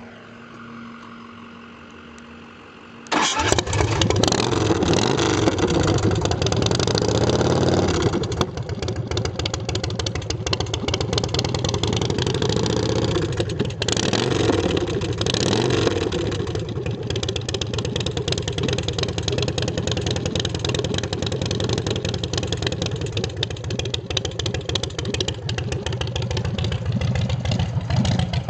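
A 2006 Big Dog Mastiff's carbureted 117 cubic inch S&S V-twin, through 2-into-1 drag pipes, fires up about three seconds in and is revved for several seconds. It then settles into a loud idle, with another blip of the throttle about halfway through.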